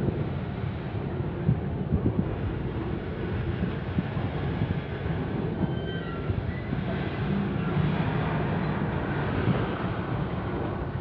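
Container freight train rolling along the track: a steady low rumble with scattered knocks from the wheels.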